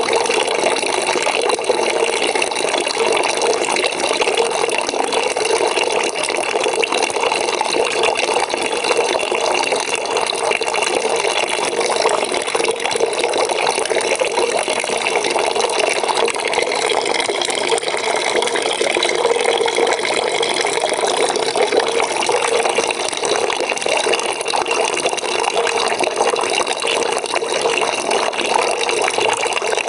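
Water pouring steadily into a bucket, a continuous splashing rush of filling water.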